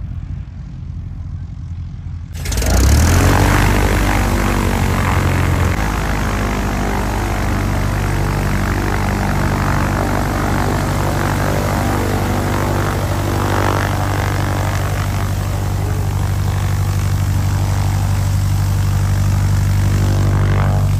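Light single-engine propeller airplane running, a loud steady engine-and-propeller drone that comes in suddenly about two seconds in and holds at an even pitch.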